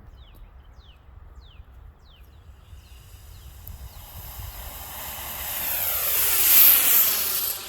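An aircraft passing overhead. Its sound swells over several seconds and falls in pitch as it passes, is loudest near the end, then cuts off abruptly.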